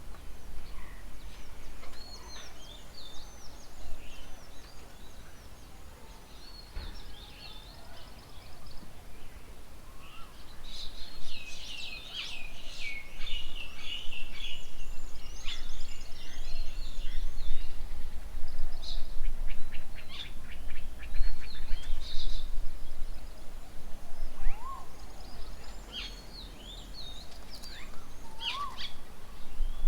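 Several birds chirping and chattering, with overlapping calls coming thick about eleven seconds in, over a steady low rumble.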